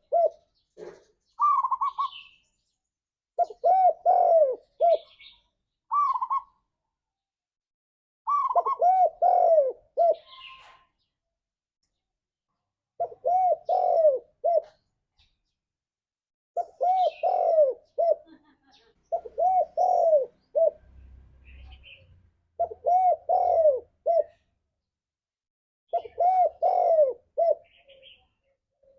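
Spotted dove cooing over and over, each phrase a quick run of several short coos, repeated every few seconds. Faint higher chirps sound between the phrases.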